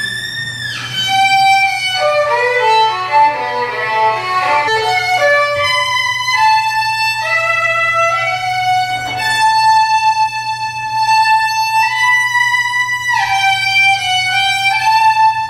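Solo violin playing a melody, with a quick run of notes about two seconds in and longer held notes later. It cuts off abruptly at the end.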